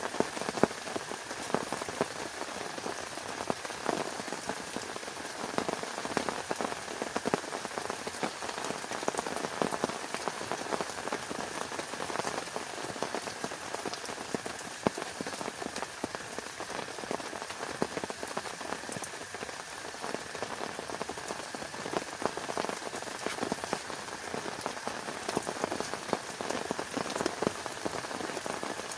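Steady rain: a dense, unbroken patter of countless drops striking a surface.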